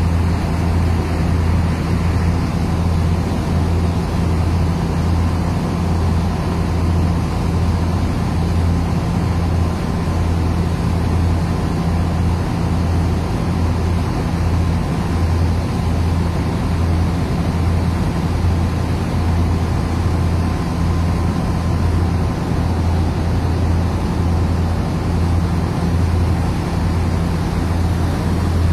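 Thames Clipper river bus's engines running steadily under way: a loud, deep drone with a faint regular pulsing, over a wash of water and hull noise.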